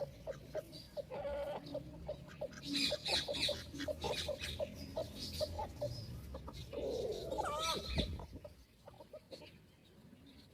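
Free-range chickens clucking, many short calls one after another, with a louder drawn-out call about seven seconds in; the flock goes quieter in the last couple of seconds.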